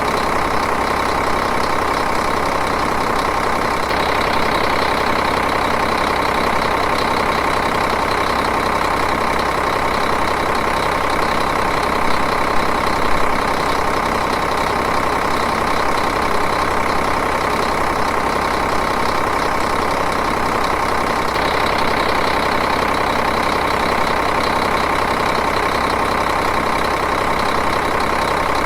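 Diesel engine idling steadily, an even running sound with a fine rapid clatter.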